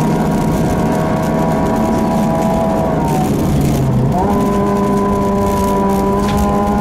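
Ford Fiesta 1.6 Sport's four-cylinder engine under load, heard from inside the cabin, with road and tyre noise on a snowy stage. The revs hold steady, dip about three seconds in, and climb back to steady revs about a second later.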